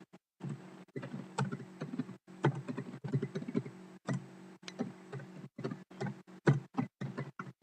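Irregular clicks and taps of typing on a computer keyboard, over a faint steady low hum.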